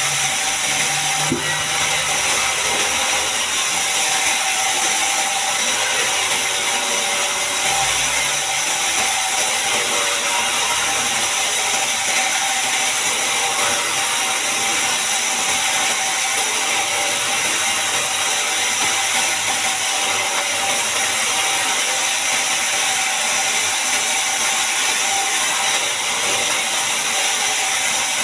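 Log band sawmill running steadily: a loud, even, high-pitched hiss that does not let up.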